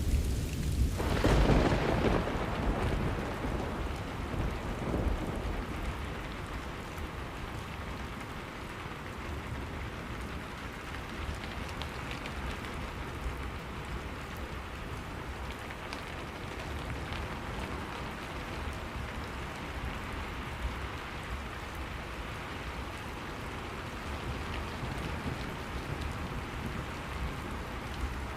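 Steady rain falling, with a roll of thunder swelling about a second in and fading away over the next few seconds, leaving the rain with a low rumble underneath.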